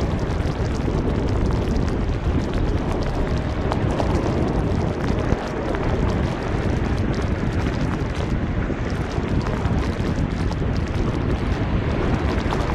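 Wind buffeting the microphone in a snowstorm: a steady, low rushing noise.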